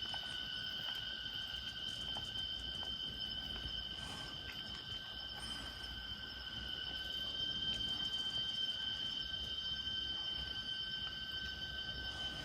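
Steady chorus of cicadas: a continuous high-pitched drone that holds one pitch throughout.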